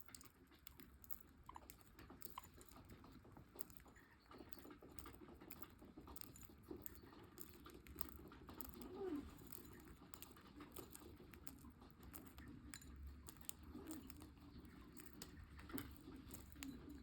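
Pet budgerigars pecking at and cracking seeds: a faint, irregular run of small clicks and nibbling sounds.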